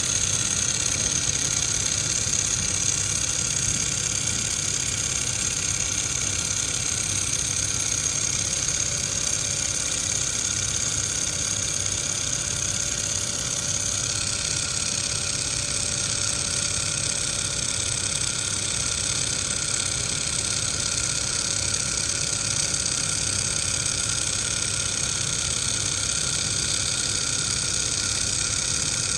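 Laser welding machine running steadily: an even mechanical hum with a hiss on top. A faint steady tone joins about eight seconds in.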